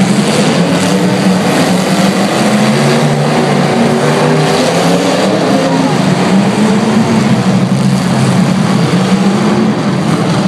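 Several demolition derby car engines running and revving at once, a loud, steady mass of engine noise with pitches drifting up and down.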